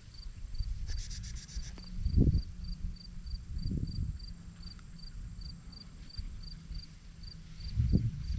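Insect chirping at a very even pace, about four short high chirps a second, over a steady thin high whine. A brief rustle comes about a second in, with a few low thumps.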